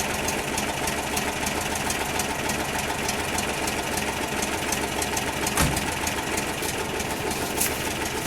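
1968 Volkswagen Type 3 Fastback's air-cooled flat-four engine running steadily just after a cold start in freezing weather without chokes. One sharp click about two-thirds of the way through.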